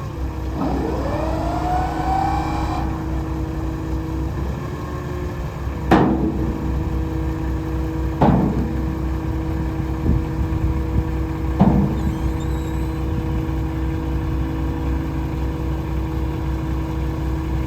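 2017 Peterbilt 567 dump truck's diesel engine idling steadily, with a brief rising whine near the start and a few short sharp knocks later on.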